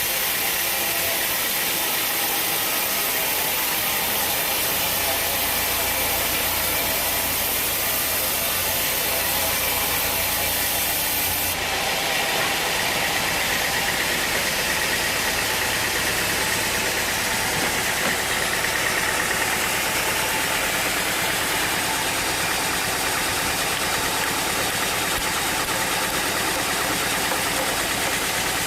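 Sawmill machinery running steadily: a continuous engine-like drone with a constant hiss. Its tone changes abruptly about twelve seconds in, then carries on steadily.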